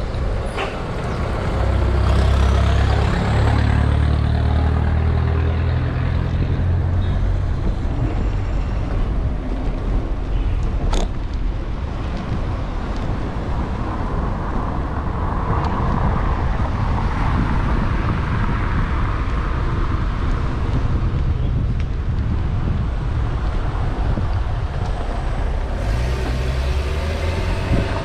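Road traffic passing close by on a city street, with cars and trucks going by and a steady rush of road noise. A heavy low rumble swells for several seconds near the start, and there is a sharp click about eleven seconds in.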